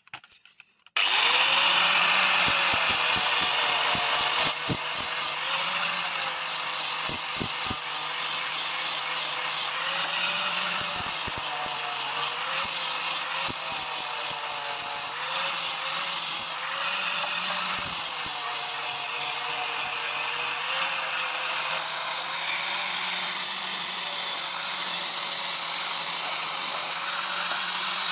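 Electric power tool starting up about a second in and then running steadily against metal, with a hum that wavers slightly in pitch under load; it is loudest for the first few seconds.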